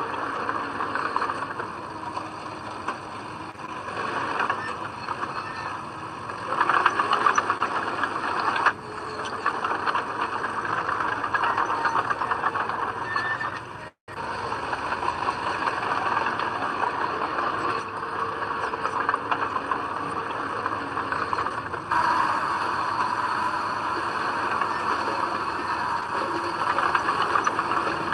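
Komatsu D20P small crawler bulldozer at work: its diesel engine runs steadily under load, with squealing and rattling from the tracks. The sound cuts out abruptly for a moment about halfway through, then carries on.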